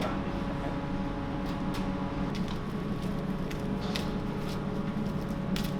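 Steady electrical hum of kitchen equipment running, with scattered light clicks and taps of handling.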